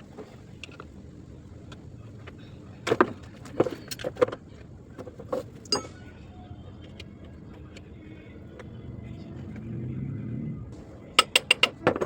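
Scattered sharp metal clanks and clicks of tools and parts being handled, with a quick run of clinks near the end and a low rumble rising and fading a little before it.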